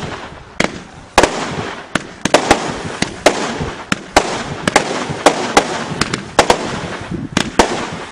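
Consumer fireworks going off in a rapid, irregular run of sharp bangs, about two or three a second, over a continuous crackling hiss.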